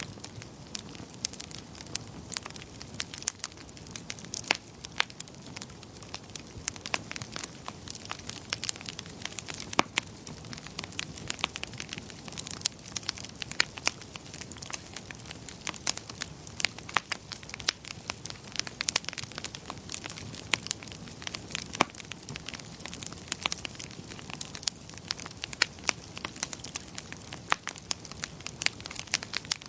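Wood fire crackling in a fireplace: irregular sharp pops and snaps, several a second, over a soft steady hiss of the burning.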